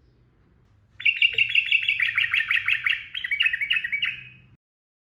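Sooty-headed bulbul singing a fast rolling run of repeated short notes, about six a second, starting about a second in and cutting off abruptly after three and a half seconds.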